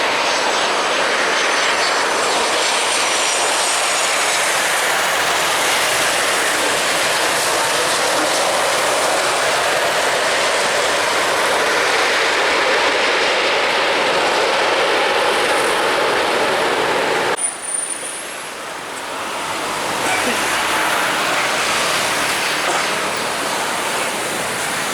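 Jet airliner engines, a loud steady rush with a thin high whine that falls in pitch over the first few seconds. The sound drops off abruptly about 17 seconds in, then a quieter rush builds again.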